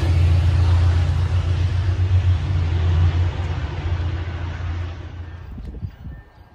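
A passing train: a loud, steady low drone and rumble that fades away over the last few seconds as the train moves off.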